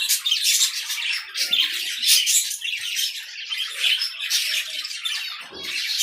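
A flock of budgerigars chattering, a dense unbroken run of high chirps.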